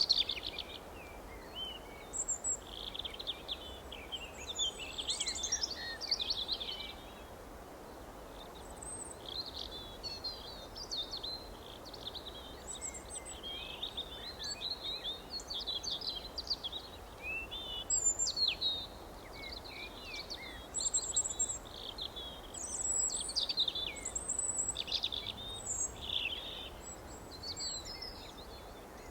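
Several birds chirping and singing in short overlapping phrases throughout, with quieter gaps, over a steady faint background hiss.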